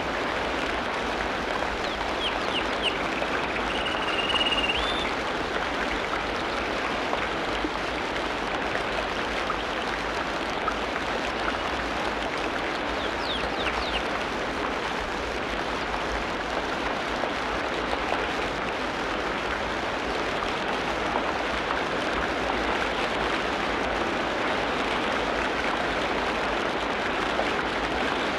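Tropical rainforest ambience: a steady hiss of rain, with a few whistled bird calls in the first five seconds and a couple of short rising ones about 13 seconds in.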